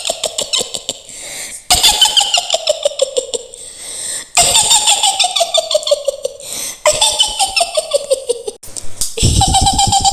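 Mak Lampir's high-pitched witch's cackle: a run of rapid laughing pulses sliding down in pitch, repeated about every two and a half seconds, four new cackles in all.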